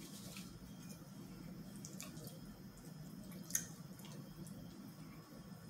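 Faint eating sounds: a person chewing, with a few soft wet mouth clicks and one sharper tick about three and a half seconds in, over a low steady hum.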